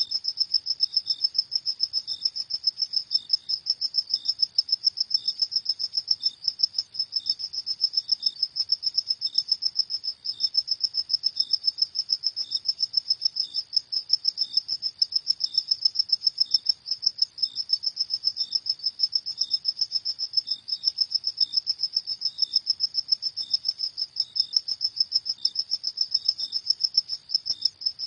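Crickets chirping at night in a continuous high-pitched trill of rapid pulses, with a second, fainter cricket chirping at a slower, regular pace beneath it.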